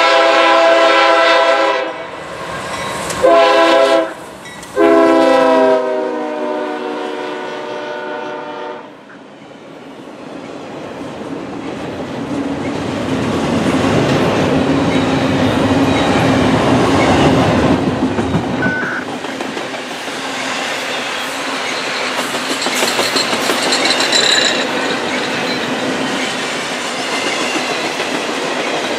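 A freight locomotive's air horn sounds three blasts: a long one, a short one, then a longer one. The locomotive then passes, and a string of double-stack intermodal well cars rolls by, its wheels rumbling on the rails.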